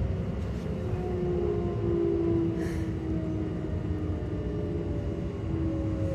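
Keikyu 600 series train's Toyo GTO VVVF inverter and traction motors, heard inside the car over the rumble of wheels on rail. Several motor tones slowly fall in pitch as the train slows on the approach to a station under electric braking. There is a brief hiss about two and a half seconds in.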